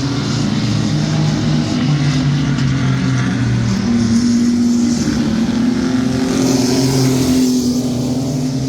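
Mini stock trucks racing on a dirt oval, their engines running hard together in a loud, continuous drone with small shifts in pitch as they circle the track.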